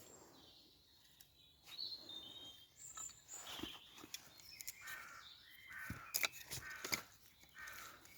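Forest birds calling at dusk, a mix of short chirps and harsher cawing calls, with a few sharp clicks or snaps in the second half.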